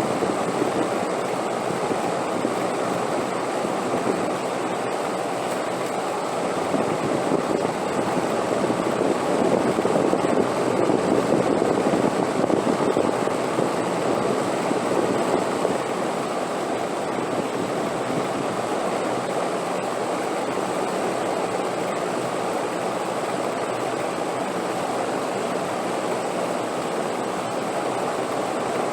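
Wind blowing steadily, a continuous rushing noise that swells a little about ten seconds in and then settles.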